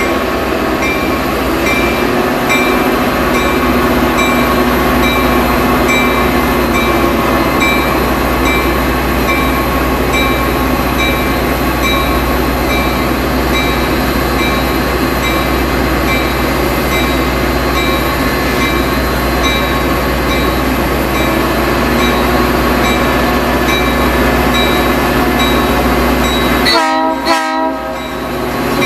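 Metra diesel locomotive pulling a bilevel commuter train slowly past, its engine running and the cars rolling, while grade-crossing bells ding steadily about twice a second. The sound cuts out briefly near the end.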